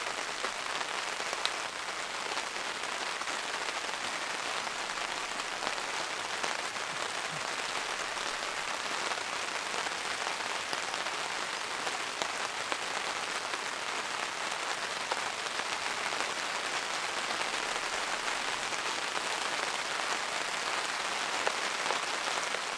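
Steady rain falling on a tarp overhead, an even hiss with faint scattered ticks.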